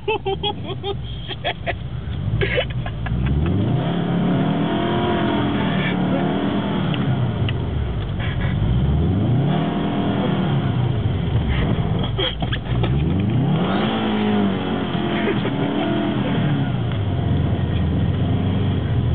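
Car engine revving up and down, its pitch rising and falling about four times as the throttle is worked through slides on snow.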